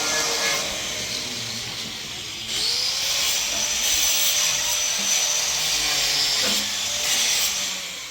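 An electric power tool running under load, with a hissing cutting or sanding noise and a motor note that rises, holds and sinks; it runs down near the end.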